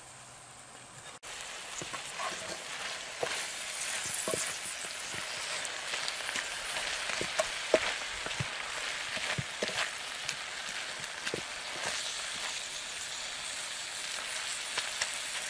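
Yucca flowers sizzling in butter in a cast-iron skillet over campfire coals, with many small pops and the scrape of a wooden spatula stirring them. The sizzle comes in about a second in and then holds steady.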